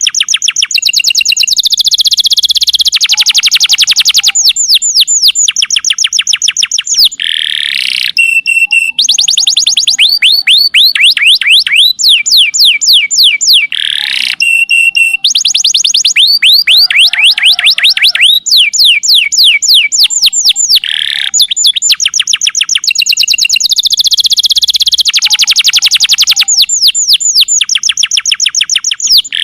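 Domestic canary singing: fast trills of rapid downward-sliding notes in long phrases. The same sequence of phrases repeats about every seven seconds.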